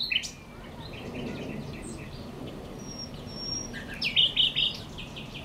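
Several songbirds singing and chirping together, with a louder run of quick repeated notes about four seconds in, over a steady low background rumble.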